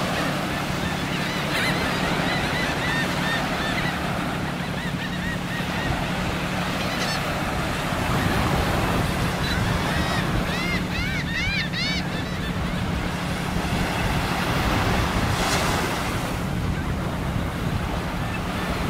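Surf washing on the shore, with wind on the microphone and a steady low hum underneath. A bird gives a run of short, arching calls about two to four seconds in, then a louder run about ten to twelve seconds in.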